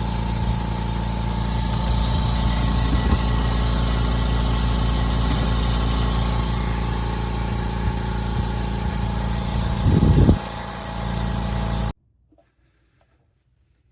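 APOLLOTECH 10-litre oil-less 100 V air compressor running steadily, with a brief louder burst about ten seconds in. The sound cuts off suddenly about twelve seconds in.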